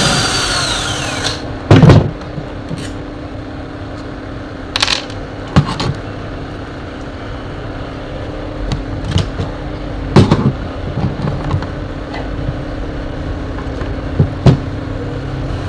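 Metal tools and fan parts being handled as an electric fan is taken apart: a few separate sharp knocks and clanks, with a ringing tone falling in pitch at the start and a steady low hum underneath.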